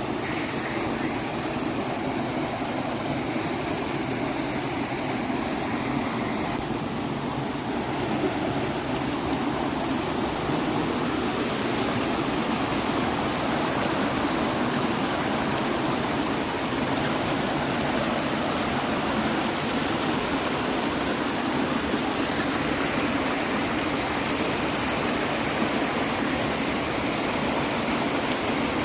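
A mountain river rushing over stones: a steady, even roar of flowing water.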